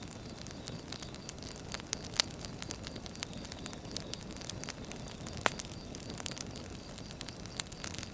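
Firewood burning: a steady low rumble of the fire with frequent small, irregular crackles and a few sharper pops.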